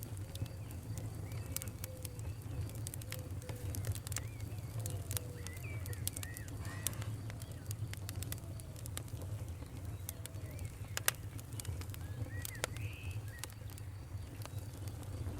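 Campfire crackling, with scattered sharp pops over a low steady rumble. Birds call alongside it: a run of short, low repeated notes through the first half and higher chirps now and then.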